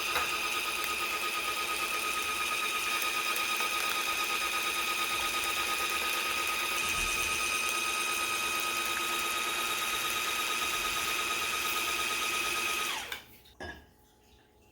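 Electric mixer running steadily at one speed, beating eggs and sugar, with a constant high motor whine. It winds down and stops about 13 seconds in.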